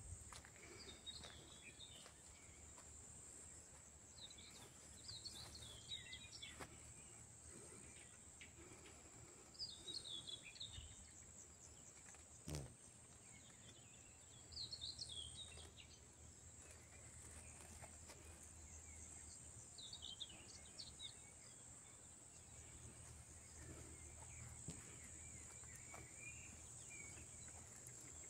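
Faint outdoor ambience: a bird chirping in short bursts every four to five seconds over a steady high-pitched hiss, with a single sharp click about twelve seconds in.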